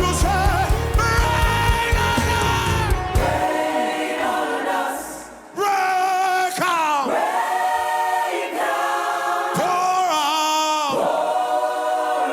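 Gospel choir singing sustained worship chords. A low, steady band beat backs them for about the first three seconds, then drops out; after a brief dip about five seconds in, the choir carries on almost unaccompanied.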